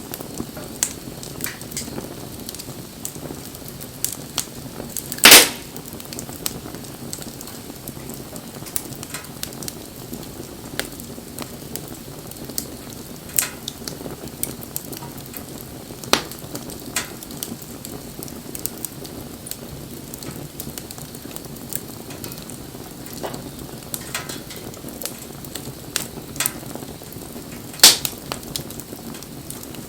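Wood bonfire burning, crackling steadily with scattered sharp pops of burning wood; two pops, about five seconds in and near the end, are much louder than the rest.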